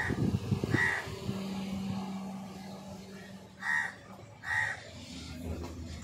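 A bird giving four short, harsh, crow-like calls: two within the first second and two more a little past the middle. A faint steady low hum runs under the first calls.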